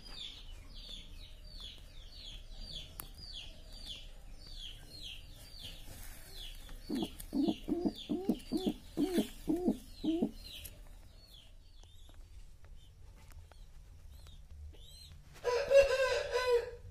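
Bird calls: rapid high peeps, about three a second and each falling in pitch, fade out around halfway. Over them, low clucking calls repeat about eight times in three seconds, and near the end comes a single loud call about a second long.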